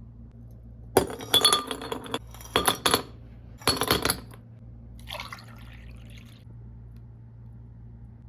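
Glass clinking: three short clattering bursts about a second in, then a brief softer sound, over a steady low hum.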